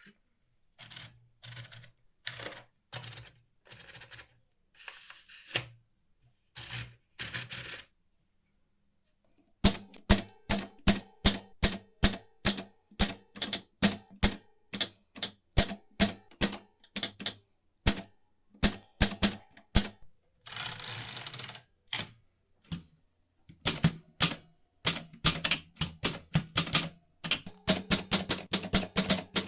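Restored 1949 Olympia manual typewriter being typed on: sharp keystrikes in quick, irregular runs. Softer clicks and rustles come first, then a short pause before the typing starts, and a longer rasping sound about two-thirds of the way through.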